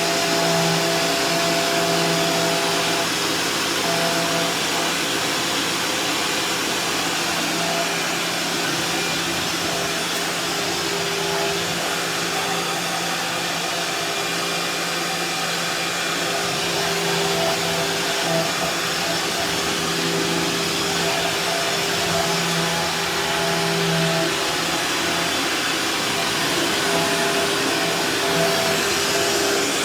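Vacuum cleaner running steadily as it cleans a kitchen floor. Its motor hum holds one pitch, with small rises and dips in level.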